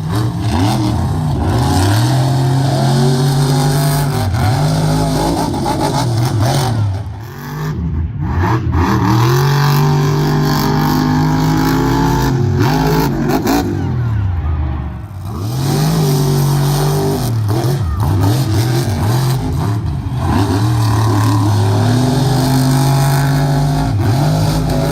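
Monster truck engine revving hard again and again, its pitch climbing and dropping every couple of seconds, with brief lulls where the throttle comes off about seven and fifteen seconds in.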